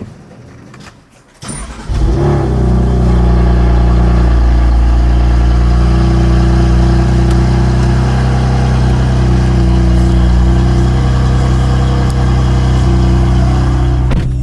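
BMW M4's twin-turbo inline-six cold-starting through an AWE SwitchPath exhaust with its valves closed. The starter turns briefly about a second and a half in, the engine catches at about two seconds and then runs at a steady idle.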